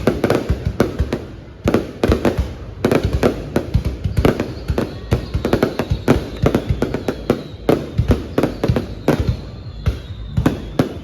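Fireworks display going off: a rapid, continuous run of sharp bangs, several a second.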